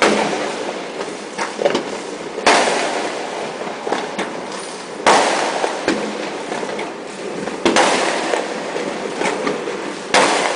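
Fireworks and firecrackers exploding all around, with a big bang every two and a half seconds or so. Each bang is followed by a long echo, and smaller cracks pop in between.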